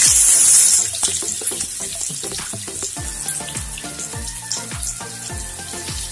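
Marinated tilapia laid into hot oil in a frying pan: a loud burst of sizzling for about the first second as the fish goes in, then steady sizzling and spattering as it shallow-fries.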